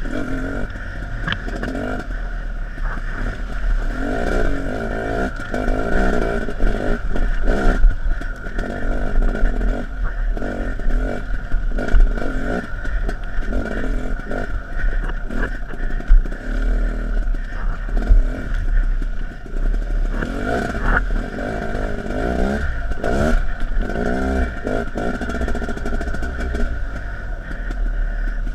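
Dirt bike engine running off-road, its pitch rising and falling again and again as the throttle is opened and closed, with clatter and knocks from the bike over rough ground.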